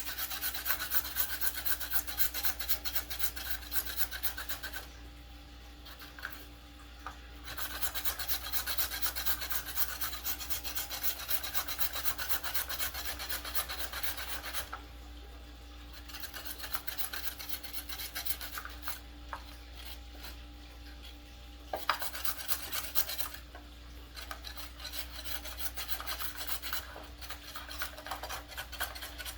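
Fast, repeated scraping strokes of food being rubbed across a hand grater, in several long runs with short pauses about 5, 15 and 23 seconds in.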